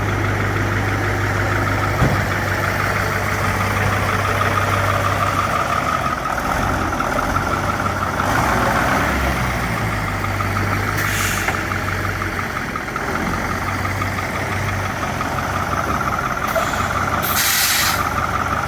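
Caterpillar diesel engine of a Ford 8000 twin-screw grain truck running steadily with a low hum. Short hisses of released air, as from the truck's air brakes, come about eleven seconds in and twice near the end.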